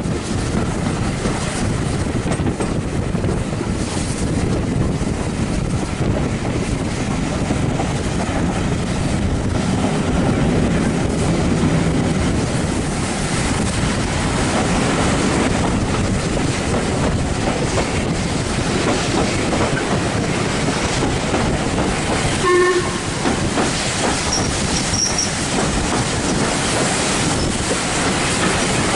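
Train running along the line: a steady rumble and rattle of wheels on the rails. A short pitched tone sounds once about three-quarters of the way through.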